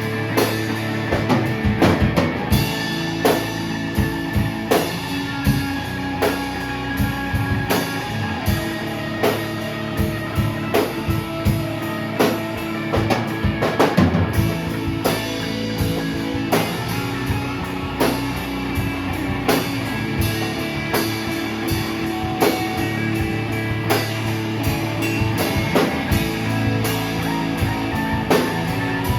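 Live rock band playing an instrumental passage: electric guitars holding sustained chords over a steady drum-kit beat, with no vocals.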